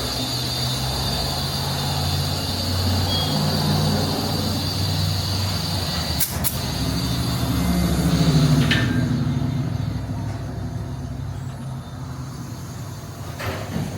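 A motor vehicle's engine running, its low hum shifting up and down in pitch and swelling about eight seconds in before easing off, with two sharp clicks about six seconds in.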